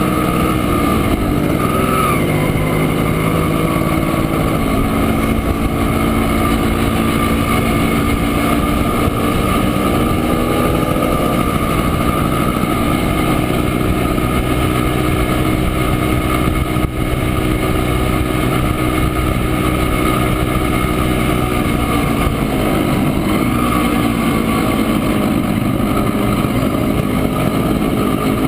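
A 1967 Montesa Impala Comando's 175 cc two-stroke single-cylinder engine running on the move. The engine note rises over the first several seconds, holds steady, then drops near the end.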